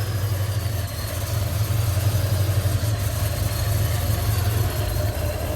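Modified car engine idling loudly and steadily, "dummy loud"; the owner believes it has no aftermarket cam.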